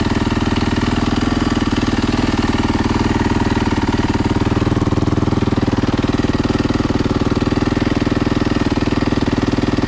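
Yamaha YZ450's freshly rebuilt single-cylinder four-stroke engine idling steadily, warming up on its first run after the rebuild.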